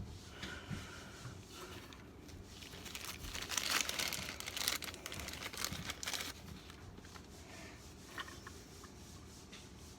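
Rustling and light scraping with a few small clicks, from parts being handled by hand, loudest in the middle.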